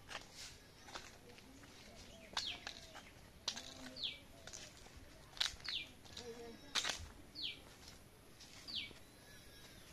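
Songbirds calling: one repeats a short whistled note that falls in pitch, four times about a second and a half apart, among sharp high chirps from others.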